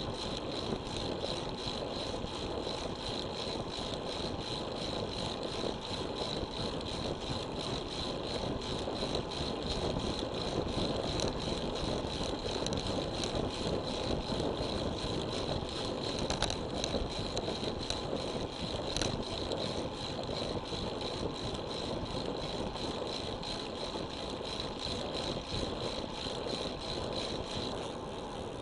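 Steady rush of wind and tyre noise while riding a road bike, with a steady high whine that fades out near the end and a couple of sharp ticks about two-thirds of the way through.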